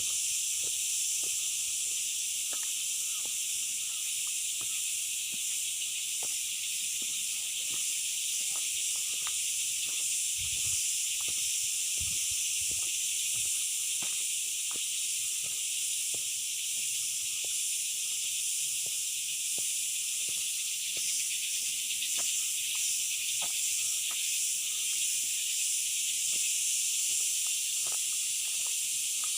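Steady high-pitched insect chorus, a constant shrill hiss, with scattered faint clicks throughout.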